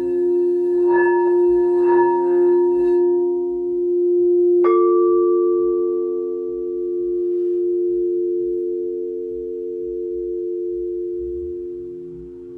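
Singing bowls ringing, several long tones sounding together and slowly swelling and fading. A couple of light strikes come in the first two seconds, then a bowl is struck sharply a little before the middle, its fresh tone ringing on over the others.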